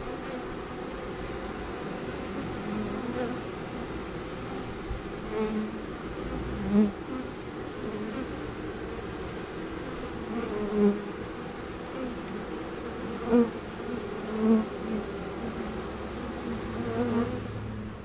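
Honey bees buzzing in a steady hum, with single bees flying close by several times in short, louder buzzes.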